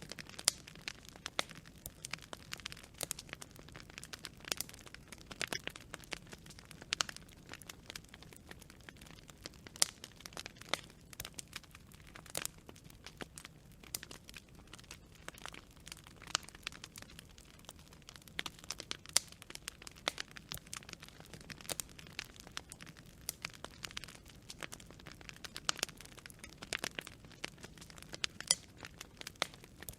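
Wood campfire of burning branches crackling: irregular sharp pops and snaps, several a second, over a faint steady low sound of the fire.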